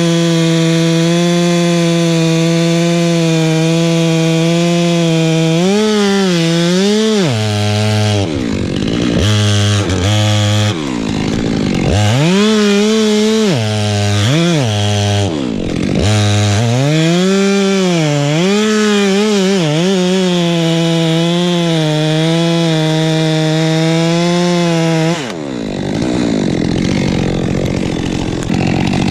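Chainsaw running at high revs while cutting wood. Its engine pitch dips and recovers again and again as the chain bogs in the cut, then changes to a rougher, less even sound near the end.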